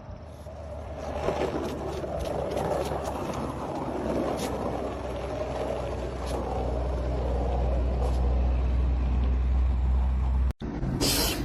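Steady low rumble with a few faint ticks, like a motor vehicle running; it cuts off abruptly near the end.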